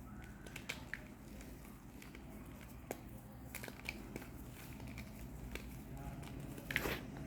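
Reformed gym chalk crumbling and being handled, giving scattered small crackles and clicks, with a louder crunch near the end.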